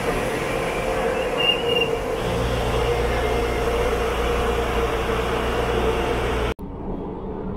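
Taiwan Railways EMU500 electric multiple unit rolling alongside a station platform, its wheels and motors giving a steady running noise with a whine, a brief high squeal about a second and a half in, and a low hum from about two seconds in. It cuts off suddenly near the end to the duller rumble heard inside a moving train.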